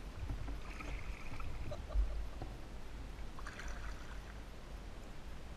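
Kayak paddling: water splashing and dripping off the paddle, with a short splash about a second in and another about three and a half seconds in, over a steady low rumble.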